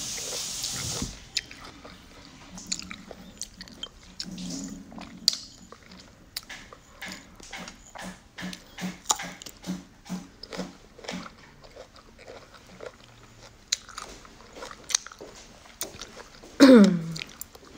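A person biting and chewing pieces of unripe green mango: irregular crisp crunching clicks, a few a second. It opens with about a second of breathy hiss, and near the end comes a short, louder hum that falls in pitch.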